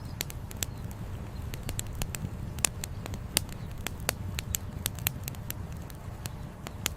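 Wood campfire crackling, with many sharp irregular pops and snaps, over a steady low rush of flowing river water.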